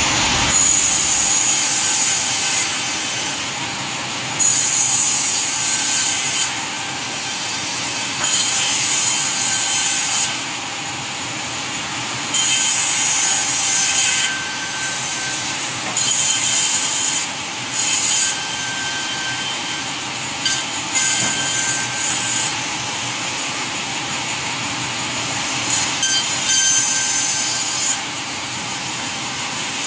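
Sawmill saw running and cutting through wood, with a louder, higher stretch of about two seconds coming back every few seconds as the blade works through the timber.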